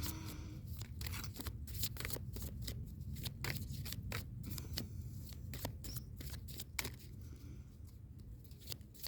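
Cards from a Dixit picture deck being handled and shuffled: a run of irregular quick clicks and snaps, over a steady low hum.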